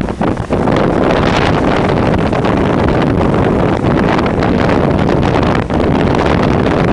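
Strong wind buffeting the camera microphone: a loud, continuous rumbling roar with a brief dip about half a second in.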